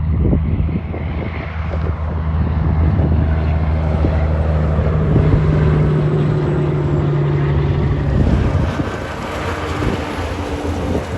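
Semi truck's diesel engine running with a loud, steady drone for about eight seconds, then giving way to a rush of tyre and wind noise that fades near the end.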